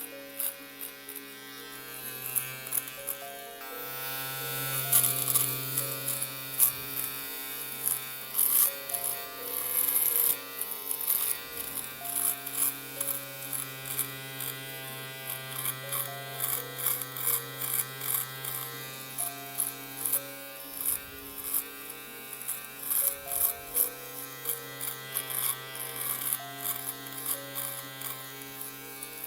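Electric shaver buzzing with a steady low hum, with many quick crackling clicks over it. Gentle melodic music with held, stepping notes plays underneath.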